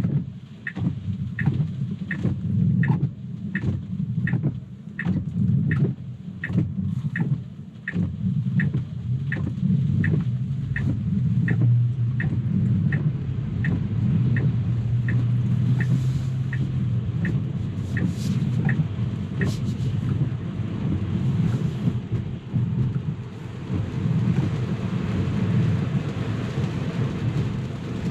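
Car driving on a wet road, heard from inside the cabin: a steady low road rumble with rain and tyre spray. A regular ticking about twice a second stops about two-thirds of the way through, and the hiss of spray grows louder near the end.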